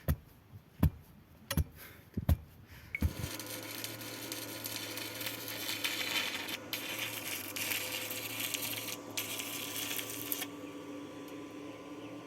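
A few sharp knocks about three-quarters of a second apart, then a small motor-driven tool starts and runs steadily with a hum and a hiss, dipping briefly twice and easing off near the end.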